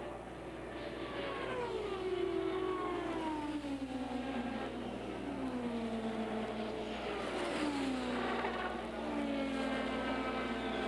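Race cars passing one after another, each engine note dropping in pitch as it goes by, several times in a row.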